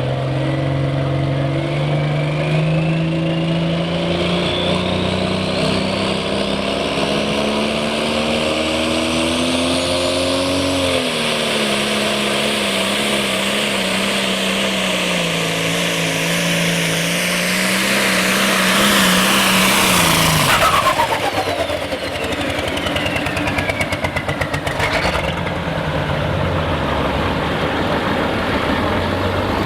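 Turbocharged pulling tractor engine running hard down the track. Its pitch climbs for about ten seconds along with a rising turbo whistle, drops and holds, then winds down about two-thirds of the way through as the turbo whistle falls away. A single sharp click comes a few seconds later.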